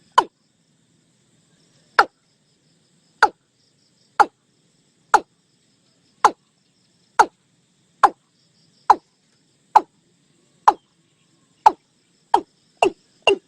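Watercock calling: a series of short, hollow notes, each falling sharply in pitch, about one a second and speeding up near the end.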